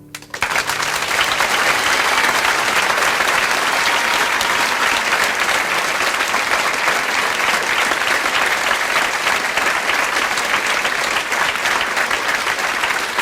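Concert audience applauding and cheering at the end of a song, breaking out suddenly as the last piano notes die away and holding steady.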